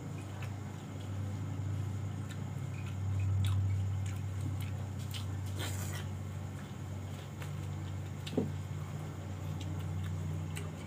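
Close-up eating sounds of a person chewing half-cooked grilled cuttlefish: small wet mouth clicks throughout, with a short slurp as a piece is bitten about halfway through and a sharp click a little later. A steady low hum runs underneath.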